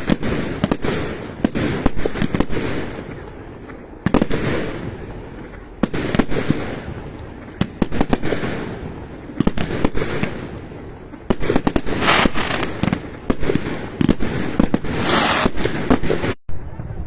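Fireworks going off in rapid volleys of sharp cracks and pops, a fresh burst about every two seconds, each trailing off in a crackling echo.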